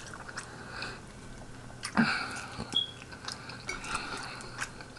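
A person chewing food up close to the microphone, with wet mouth sounds and scattered light clicks, a couple of them louder about two seconds in.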